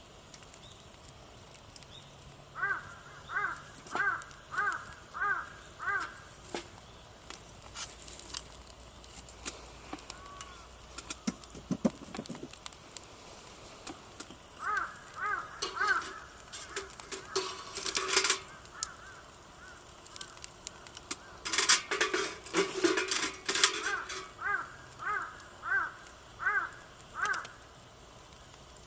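A crow cawing in runs of about six calls, roughly one and a half to two calls a second, three times over. Bursts of sharp clicks and crackles come in between, the loudest just past the middle.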